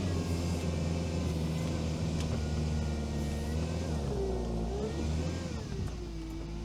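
Veter all-terrain vehicle's engine pulling under load as it climbs a steep embankment, steady at first, its pitch dipping and rising between about four and five and a half seconds in, then settling lower near the end.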